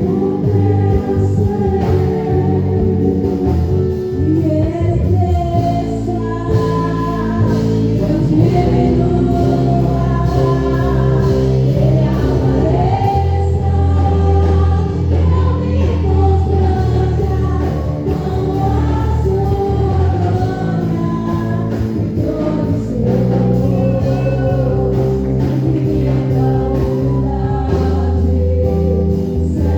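Gospel praise song performed live: voices singing a bending melody over continuous instrumental accompaniment with a strong, steady bass.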